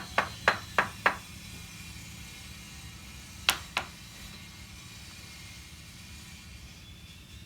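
Hammer blows on wood: a quick run of about five sharp strikes, then two more a couple of seconds later.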